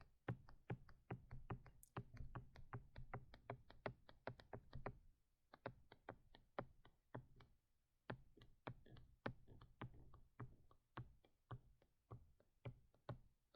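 Faint, quick clicks and taps from hand input on a digital drawing setup, about two to three a second. They pause briefly about five seconds in and come more sparsely after that.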